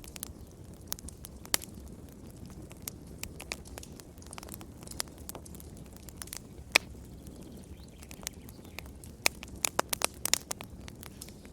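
Wood fire crackling in a fireplace: a steady low rumble of the flames with sharp, irregular pops and snaps, a cluster of quick pops near the end.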